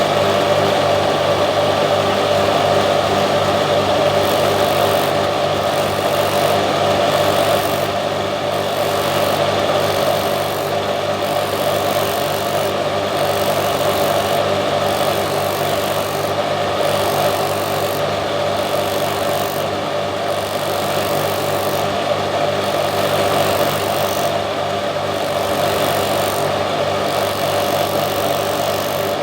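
Electric motor of a power tool running steadily and fairly loud while it works the edge of a leather coaster. A higher hiss over the motor drops out briefly every second or two.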